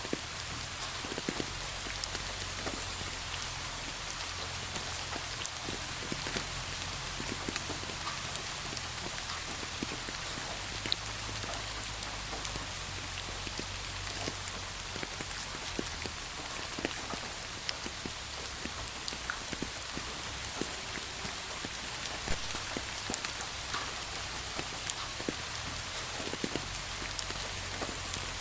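Steady rain falling, an even hiss with many scattered drops ticking on a surface.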